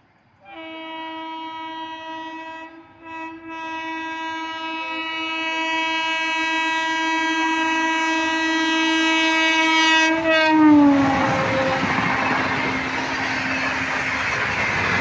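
Indian Railways locomotive horn of the Bihar Sampark Kranti Express sounding one long blast of about ten seconds, briefly broken near the start, then falling in pitch as it ends. The rising rumble and clatter of the train's wheels on the rails follows and carries on to the end.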